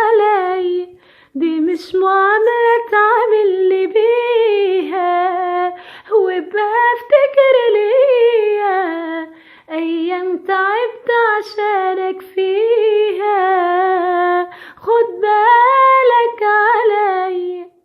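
A woman singing an Arabic pop melody solo with no instruments heard, in long phrases of held, wavering notes broken by short breaths.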